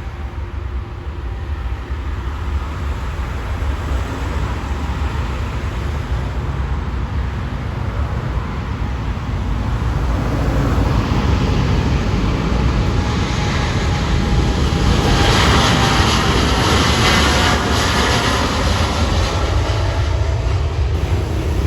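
Aircraft passing at an airport: its engine noise builds to a loud peak about fifteen seconds in, with a faint falling tone as it goes by, over a steady low rumble.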